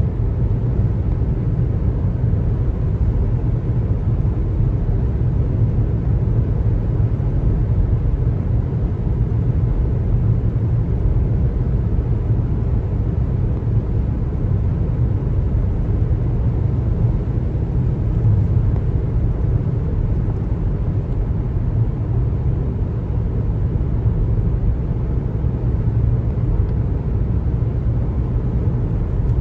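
Steady low road rumble of a car driving, the tyres and engine running evenly with no breaks or distinct events.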